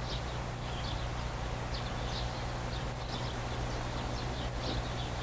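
Small birds chirping, with short high notes in quick clusters that come again every second or so, over a steady low hum.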